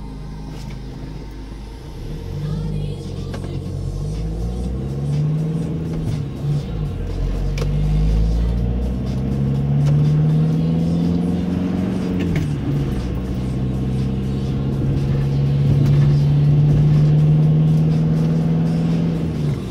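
Car engine heard from inside the cabin, pulling away and accelerating, its pitch rising and dropping several times through the gear changes, then holding steady as the car cruises.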